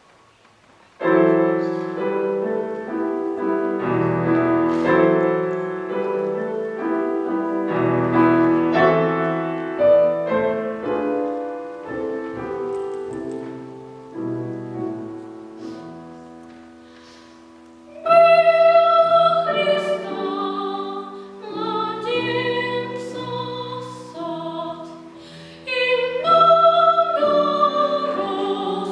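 Piano playing an introduction, starting about a second in. About 18 seconds in, a young soloist enters singing in classical academic style, a high voice with vibrato, over the piano accompaniment.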